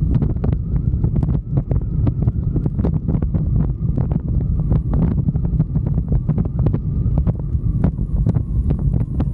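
Wind buffeting the microphone on a moving motorcycle: a steady low rumble with many short crackles.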